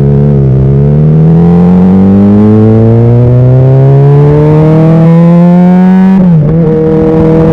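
Honda CBR600RR's inline-four engine pulling steadily through a gear, its pitch rising for about six seconds. Near the end it drops sharply as the rider shifts up, then holds level.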